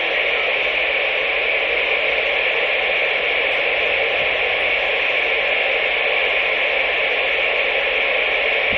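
CB radio receiver hissing with steady static from its speaker while the channel is idle between transmissions.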